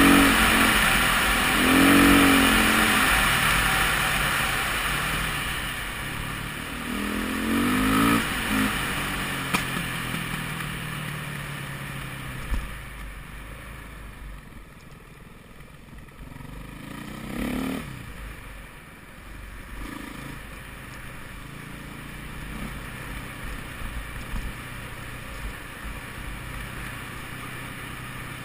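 2008 KTM 450 EXC-R single-cylinder four-stroke enduro engine under way, heard from the rider's helmet. It revs up and down in surges through the first eight seconds or so, then runs more softly, with one more rev a little past halfway.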